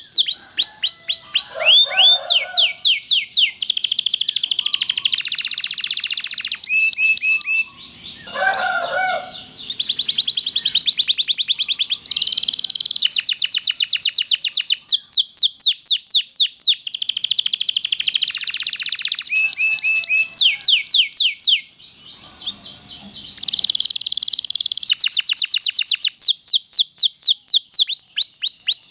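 Domestic canary singing a long, loud song of fast repeated sweeping notes and rolling trills, broken by brief pauses twice.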